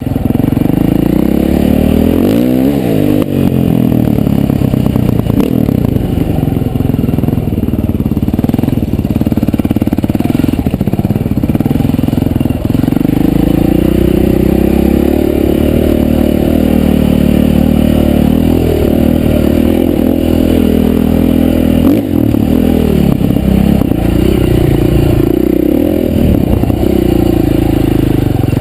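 Dirt bike engine running loud and continuously as it is ridden, the revs rising and falling again and again.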